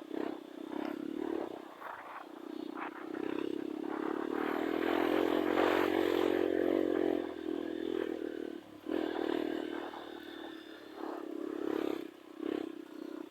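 Trail motorcycle engine running under throttle, rising to its loudest about four to seven seconds in, dropping off briefly, then picking up again, with short knocks and scraping mixed in.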